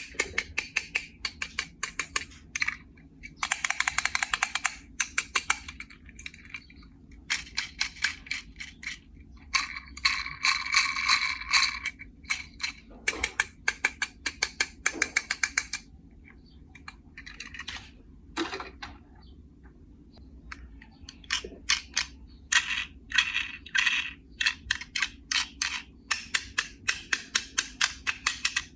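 Quick runs of small hard clicks and clattering, like die-cast toy cars and a plastic carry case being handled, with denser stretches of clatter a few times.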